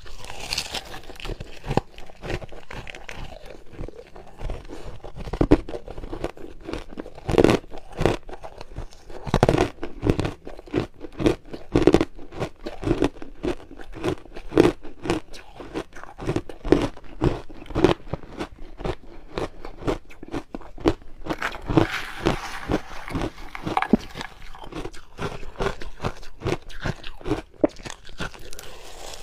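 Ice being bitten and chewed close to the microphone: a steady run of sharp, crackling crunches, with a brighter crackling stretch about three quarters of the way through.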